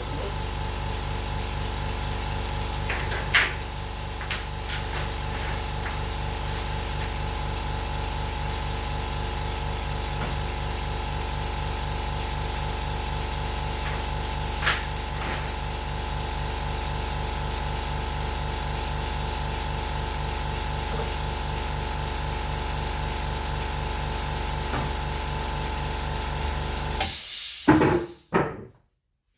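A steady motor hum with a few light knocks and clicks over it. It cuts off abruptly near the end, after a short louder burst.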